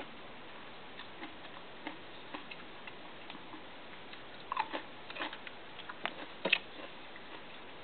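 Small eating sounds: scattered faint clicks and taps of food and packaging being handled and chewed, with a short cluster of louder clicks about four and a half seconds in, over a low steady hiss.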